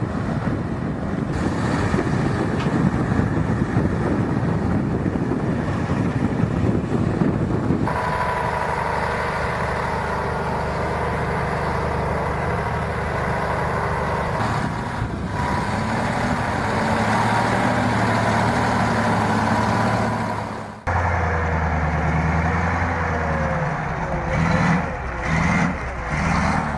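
Heavy vehicle engines running under load, the sound changing abruptly about 8 and 21 seconds in as one machine gives way to another.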